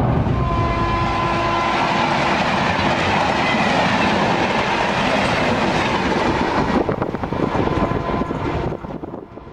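Passenger trains passing at speed: a loud, steady rumble and rush of coaches on the rails. A steady tone sounds for over a second near the start, and a rhythmic clickety-clack of wheels over rail joints comes in toward the end before the sound fades.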